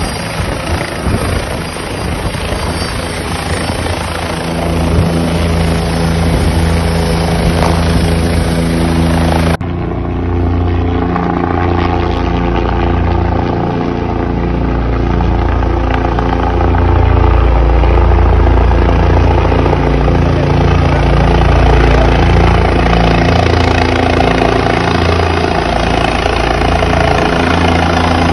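Helicopter running as it lands, its rotor and engine making a loud, steady low hum with several held tones. About ten seconds in the sound changes abruptly and turns duller.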